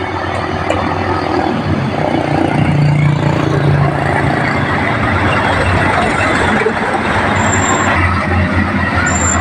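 Heavy truck's diesel engine labouring in a low gear as it crawls up a steep climb: a loud, steady low drone.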